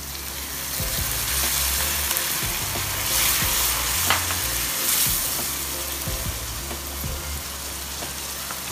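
Minced garlic and chopped chilies sizzling in hot oil in a nonstick wok, with a wooden spatula stirring and scraping through them. Vinegar is poured in at the start, and the sizzle grows louder about a second in, loudest in the middle, then eases.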